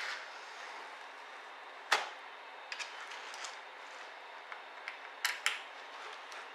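Sharp clicks and taps of small laptop parts being handled during disassembly, over a steady hiss. The loudest click comes about two seconds in, and a quick pair of clicks comes near the end.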